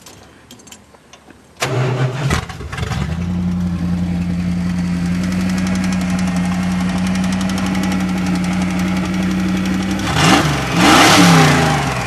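Dodge demolition derby truck's engine starting about a second and a half in and settling into a steady idle. It is then revved twice near the end, the second rev the louder.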